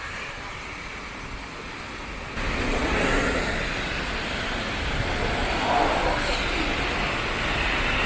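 Street traffic noise: cars passing with a steady rush. It gets suddenly louder about two and a half seconds in.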